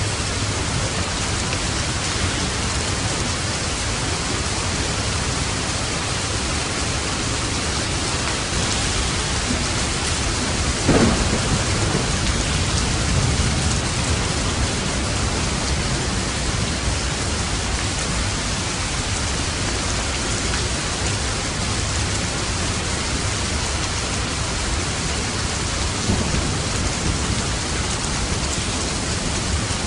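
Steady heavy rain falling on a roof, with a sharp thunderclap about a third of the way in that trails off into a low rumble over a couple of seconds, and a fainter thump of thunder near the end.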